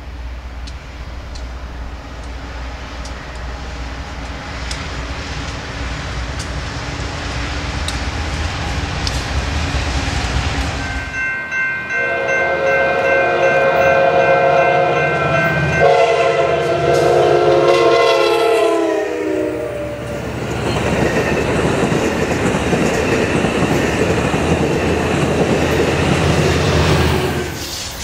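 A BNSF freight's GE diesel locomotives rumble steadily, growing louder as they approach. About halfway through, a passenger locomotive's multi-note air horn sounds in two long blasts, its pitch dropping as it passes. The train then rolls by with steady wheel-on-rail clatter.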